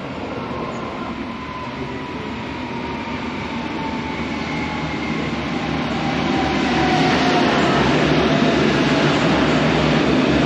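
V/Line VLocity diesel multiple unit pulling into the platform. Its rumble grows louder over the second half, with a faint whine falling in pitch.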